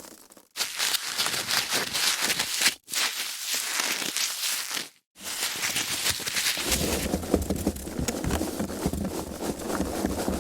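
Foam packaging being handled: dense crackling and rubbing, in several short takes with brief silent breaks between them, fuller and lower from about two-thirds of the way in.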